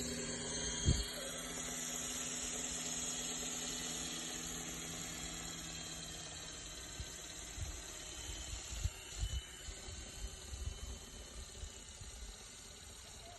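Ikarus Eco 8 RC helicopter's electric motor and rotor running with a steady hum and high whine that slowly fades away over the first several seconds. A sharp knock about a second in, and scattered low thumps later on.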